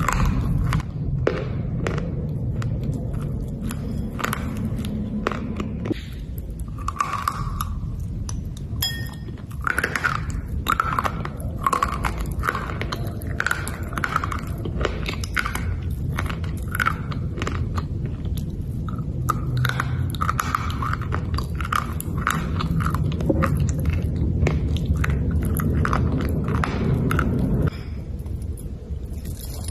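A person biting and chewing pieces of black slate, with many hard, irregular crunches and clicks throughout, over a steady low background hum.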